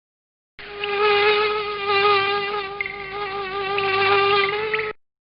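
Insect wing buzz sound effect, a steady high-pitched drone that swells and eases a few times. It lasts about four seconds and starts and stops abruptly.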